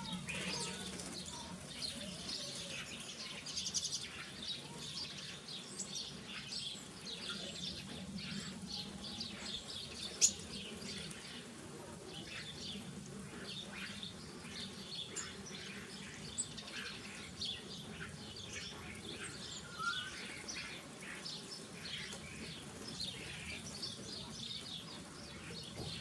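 Many small garden birds chirping and twittering, a continuous overlapping mix of short high calls, with one sharp click about ten seconds in.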